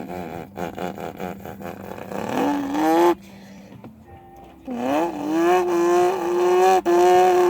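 A person imitating a car engine with their mouth: a rapid sputtering rattle that rises into a revving note and cuts off about three seconds in. After a short pause comes a long, held engine note that dips, then climbs slowly, with a brief break near the end.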